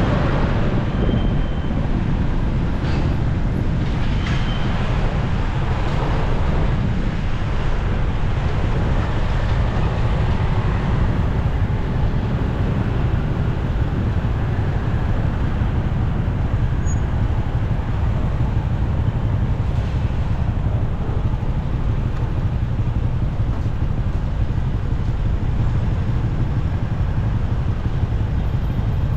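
Motorcycle riding through city traffic: a steady rumble of engine and wind, mixed with road and traffic noise from the surrounding vehicles.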